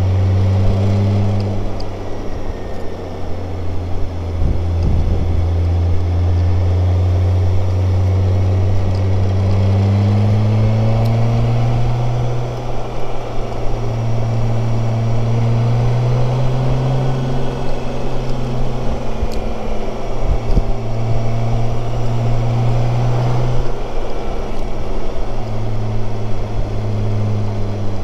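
BMW K1600GTL's inline-six engine running on the move, heard from a helmet-mounted camera over steady rushing noise. Its pitch holds steady for about the first ten seconds, then rises and wanders up and down with the throttle.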